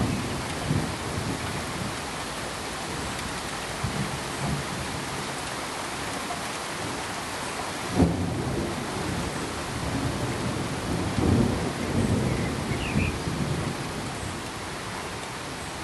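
Steady even hiss with thunder rumbling low underneath: a sharp crack about eight seconds in, then rolling rumbles a few seconds later.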